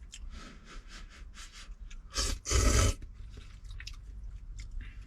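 A person eating a bowl of noodles, with wet chewing and mouth smacks about two to three times a second. A louder short rush of noise comes a little past two seconds in.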